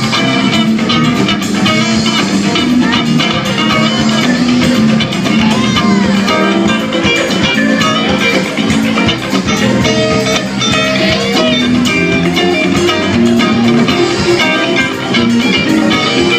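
Live rock band playing an instrumental passage, with electric guitars over bass and drum kit at a steady loud level.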